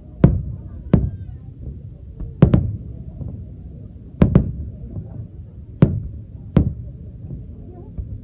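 Fireworks shells bursting overhead: about eight sharp bangs at uneven intervals of roughly a second, some in quick pairs, each trailing off in a low rumble.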